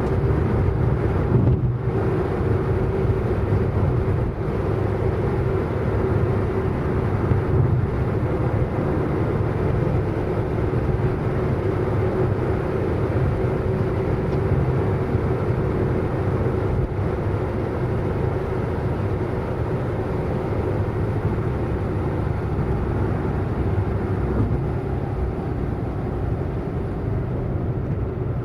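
Car driving fast at a steady speed: a steady engine drone and road rumble with no change in revs.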